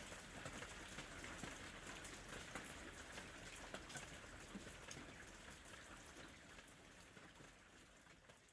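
Rain falling steadily, a soft hiss dotted with many small drop ticks, fading out gradually over the last few seconds.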